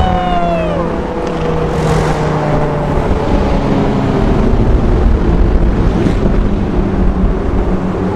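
Dodge Viper's V10 running loud through a muffler-less custom exhaust, echoing in a tunnel. In the first second the engine note falls as the revs drop, then it settles into a steady drone with rushing wind noise.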